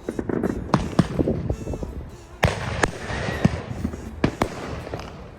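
Fireworks going off: a quick run of sharp bangs, about seven loud ones, with crackling in between.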